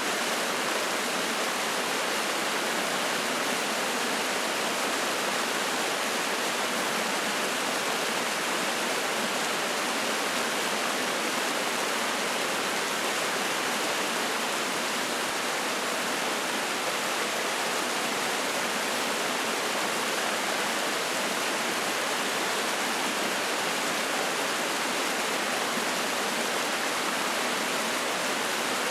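Spring-fed mountain stream rushing and splashing over rocks, a steady, even rush of water with no break.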